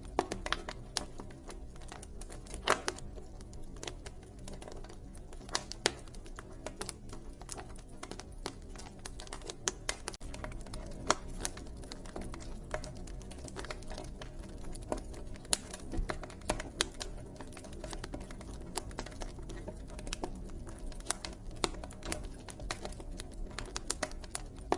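Wood fire crackling with a dense run of irregular small clicks and occasional louder pops, over a low steady rumble.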